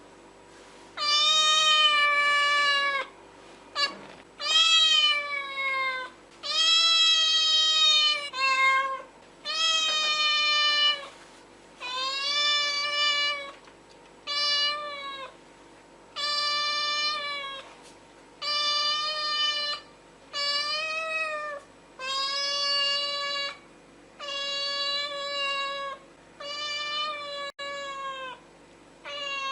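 A cat meowing over and over: about fifteen drawn-out meows, most a second or two long, with short pauses between them.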